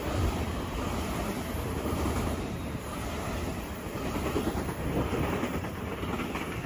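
Electric commuter train passing close by at speed: a steady, loud noise of its steel wheels running on the rails and the cars rushing past.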